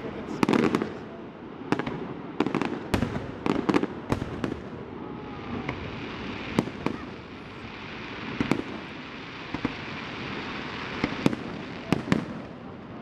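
Aerial fireworks bursting: a rapid run of sharp bangs over the first few seconds, then single bangs every second or two, over a steady hiss.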